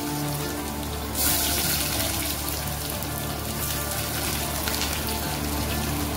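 Sliced onions sizzling in hot mustard oil in a pressure cooker, a steady frying hiss. The sizzle gets louder a little after a second in, as more onion goes into the oil.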